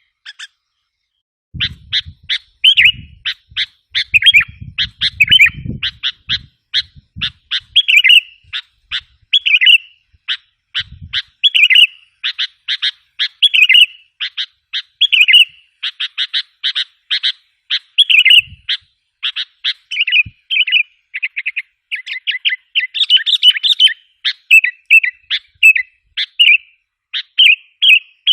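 Sooty-headed bulbul (kutilang) calls: rapid strings of sharp chirps mixed with short burbling phrases, repeated almost without pause after a short gap at the start. This is a bird-lure recording (suara pikat), played to stir up wild bulbuls.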